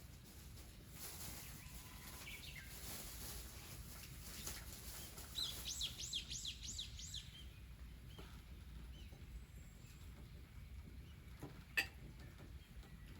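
A small bird calling outdoors, with a few chirps and then a quick run of about seven high down-slurred notes, over faint background hiss. A single sharp click comes near the end.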